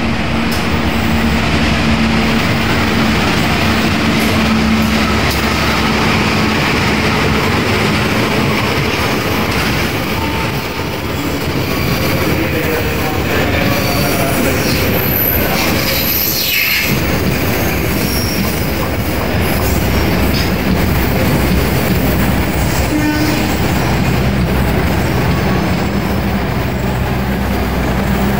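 KA Bangunkarta passenger train, hauled by a diesel locomotive, running past along the platform. The locomotive's low engine hum fills the first few seconds, then comes the steady rumble and clatter of the coaches' wheels on the rails, with faint high squeals near the middle.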